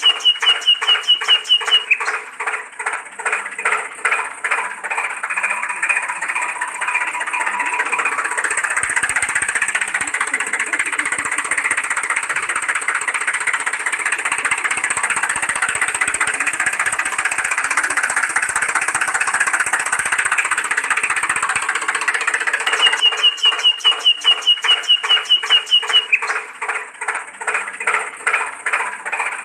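Tractor-style engine chugging in rapid even pulses. It runs faster and smoother through the middle, then falls back to a slower, more distinct chug about two thirds of the way in.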